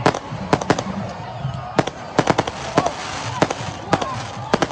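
Firecrackers going off in a rapid, irregular string of sharp bangs, about a dozen, several in quick clusters, over a crowd's background din.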